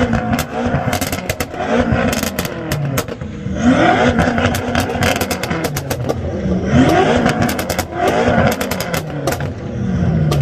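Engine with a very loud exhaust revved three times, pitch climbing then dropping back each time, with sharp crackles and pops throughout.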